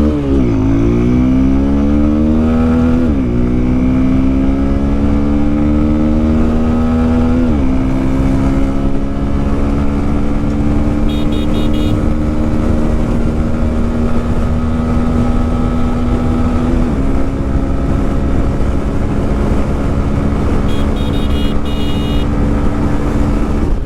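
Bajaj Pulsar N125's single-cylinder engine under full-throttle acceleration from a standstill. Its pitch climbs, drops at each upshift about 3, 7.5 and 17 seconds in, then climbs again more slowly in each higher gear.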